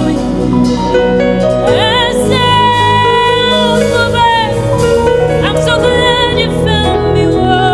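A gospel band playing in rehearsal: keys, bass and drums under a sustained lead melody line that swells with vibrato and slides up into its notes.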